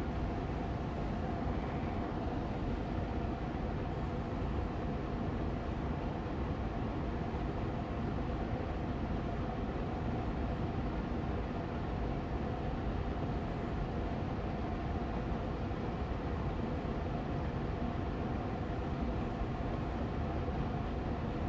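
Austin Air Allergy Machine air purifier's fan running steadily on medium speed: an even rush of air with a faint steady hum in it.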